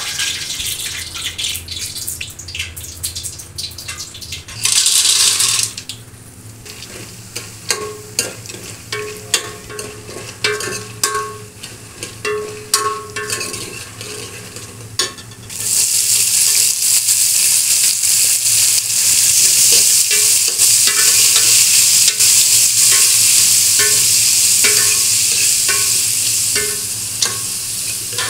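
Hot oil sizzling in a steel pressure-cooker pot as wadi are stirred with a steel ladle, the ladle scraping and clinking against the pot. About halfway through, a much louder steady sizzle sets in, as sliced onions and garlic hit the hot oil.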